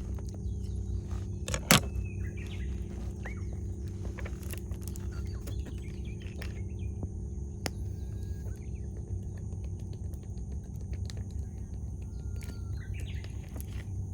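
Wood campfire crackling, with scattered small pops and one loud pop about two seconds in. Birds chirp now and then over it.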